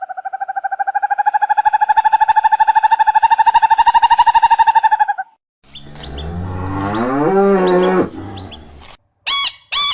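A series of animal calls. First a long, high, steady call that pulses rapidly and stops about five seconds in. Then a low cow moo that rises in pitch over about two seconds, and near the end two short, high chirps.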